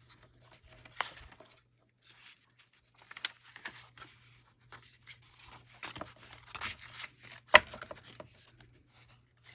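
Sheets of paper being handled and shifted on a table, rustling, with light taps. A sharp click comes about a second in and a louder knock about three-quarters of the way through.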